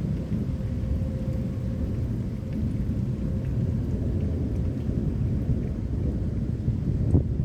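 Thunder rumbling low and steadily through a thunderstorm, with rain. A sudden low thump comes near the end.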